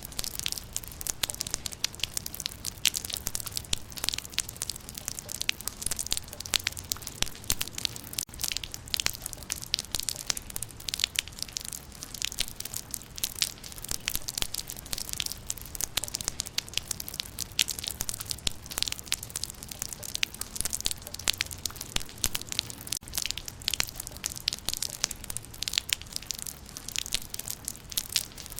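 Rain falling on leaves: a dense, steady spatter of countless small drop ticks.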